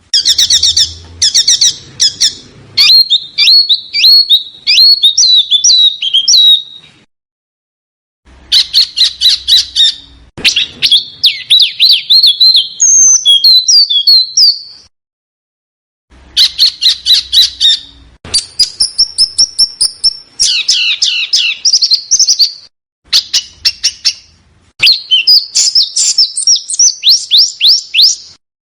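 A small songbird singing in phrases of rapid, sharp, high chirps and trills, each phrase lasting several seconds, with short pauses between them.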